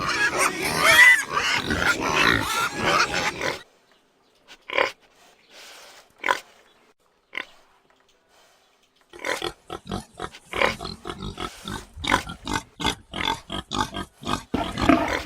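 Pigs calling: high, sliding calls packed together for the first few seconds, then a quiet stretch broken by a few single grunts, then a quick run of short grunts from about nine seconds in.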